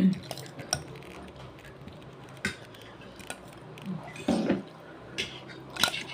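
Spoon and fork clicking and scraping against a plate while eating palabok noodles, in scattered irregular clinks. There is a louder muffled knock at the very start and another about four seconds in.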